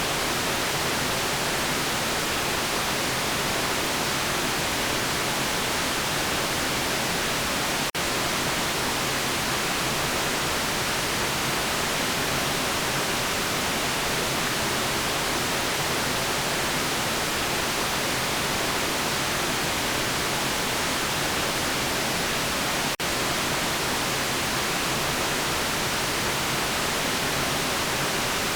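Steady synthetic white noise: an even, unbroken hiss spread across the whole range, strongest in the upper frequencies. It dips out for an instant twice, about 8 and 23 seconds in.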